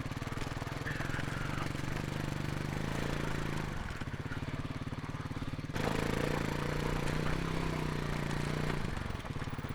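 Kawasaki KLX300 dirt bike's single-cylinder four-stroke engine running at low revs on a slow, rocky trail ride, the throttle held fairly steady. It gets a little louder about six seconds in and drops back briefly near the end.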